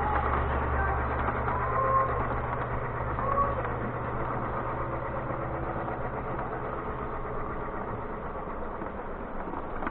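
Battery-powered O scale toy train running on its track: a steady low motor hum and wheel rumble that drops away about eight seconds in.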